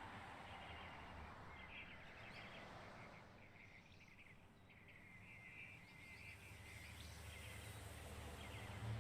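Faint outdoor ambience: quiet clusters of small repeated chirps over a low hum, the hum growing louder near the end.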